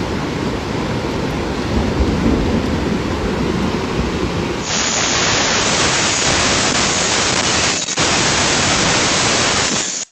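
Monsoon thunderstorm: loud, continuous storm noise with a heavy low rumble, changing suddenly a little under five seconds in to a bright, even hiss of heavy rain.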